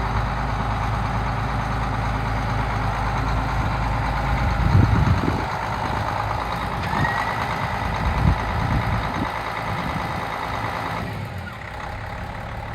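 Case 2390 tractor's six-cylinder diesel engine running steadily, with a couple of low thumps and a thin high steady tone joining about halfway through.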